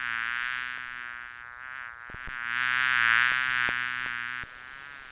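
Bee buzzing in flight with a steady droning hum that swells louder about three seconds in, then drops back.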